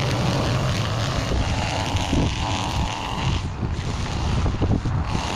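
Small gas engine of a handheld lawn trimming tool running steadily, used to cut back weeds along the walkway.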